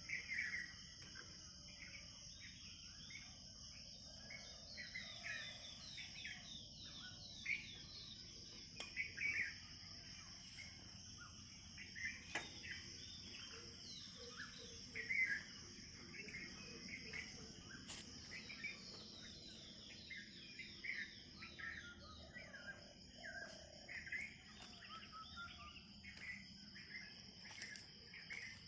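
Birds chirping and calling in many short, scattered notes, with a quick run of falling notes a few seconds in and again about halfway, over a steady high-pitched insect drone.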